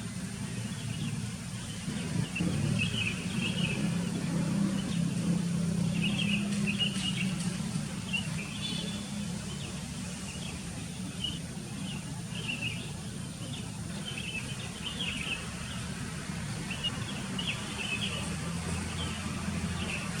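Sooty-headed bulbuls calling, with short bubbly chirps repeated every second or so, over a steady low rumble that swells for a few seconds near the start.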